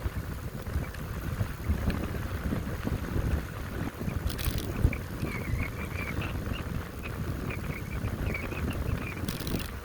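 Wind buffeting the microphone, an uneven low rumble, with faint high chirps from about halfway through and two brief hissing bursts.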